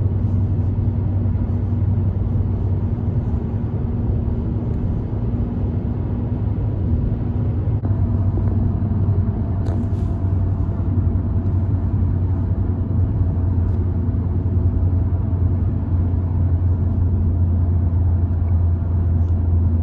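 Steady low rumble of a car on the move: engine and road noise, with a constant low hum.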